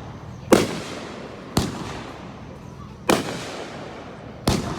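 Aerial firework shells bursting: four loud bangs spaced about a second to a second and a half apart, each followed by a fading echo.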